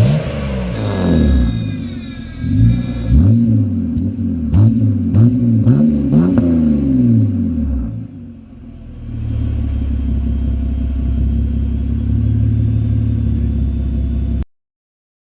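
BMW exhaust with an Evil Energy exhaust cutout, the engine blipped in a string of quick revs, each rising and falling in pitch, for about eight seconds. After a short lull it settles to a steady idle, and the sound cuts off abruptly near the end.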